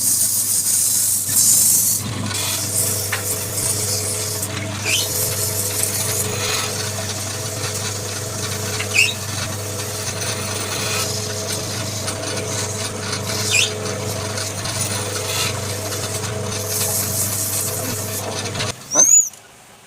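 Wood lathe running with a steady motor hum while a turning tool scrapes and cuts the spinning wood, heaviest in the first couple of seconds; the machine cuts off near the end.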